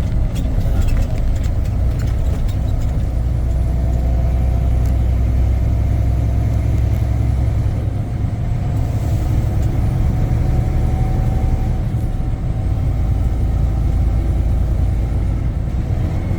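Semi-truck driving on the highway, heard from inside the cab: a steady low rumble of the diesel engine and road noise.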